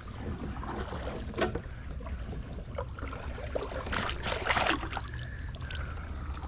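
Kayaks being moved on the river: paddle splashes and knocks against the hull over a steady low rumble of wind and water, with a single knock about a second and a half in and a cluster of splashes around four to five seconds in.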